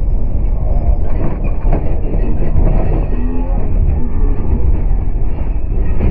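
2nd-generation Dodge pickup truck in motion over rough ground: a heavy, continuous rumble with rattling and jolting throughout.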